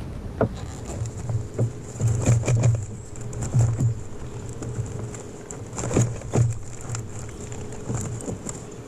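Irregular knocks, thumps and clicks of handling, with a faint steady high whine underneath.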